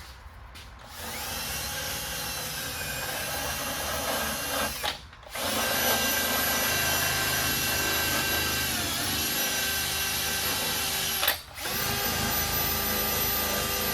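A handheld power tool runs in three long bursts with short pauses between them, its motor pitch dipping briefly during the middle run. It is being used to strip the old seal and its adhesive.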